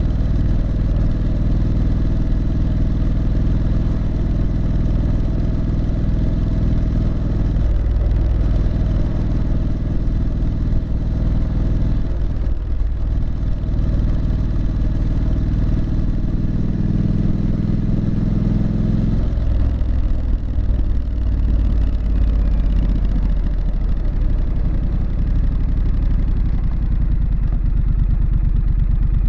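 Triumph Street Scrambler's 900 cc parallel-twin engine and exhaust, heard on board while riding. The engine runs steadily, and its note changes a few times: about 8 seconds in, about 12 seconds in, and again near 19 seconds.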